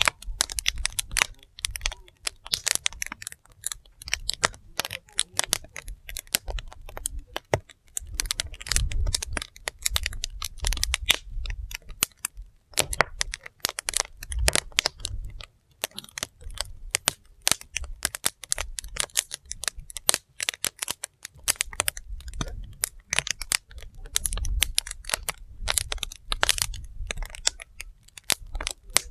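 Wood fire burning, crackling with dense, irregular pops and snaps, over a low rumble that swells and fades.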